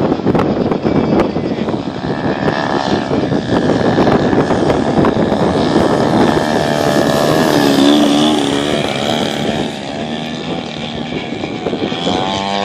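Giant-scale RC Extra 300's DA-120 twin-cylinder two-stroke gas engine and propeller running at high power as the plane flies, the engine pitch sliding up and down as it passes and changes throttle.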